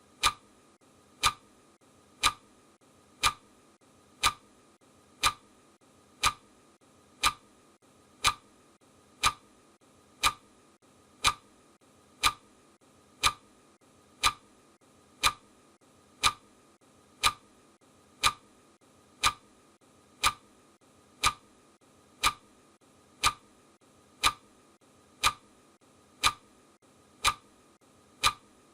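Steady, even ticking: one sharp tick about every second, every tick alike.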